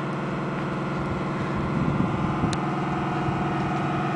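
Remote-control model boat's motor running with a steady hum, with a few low knocks about two seconds in.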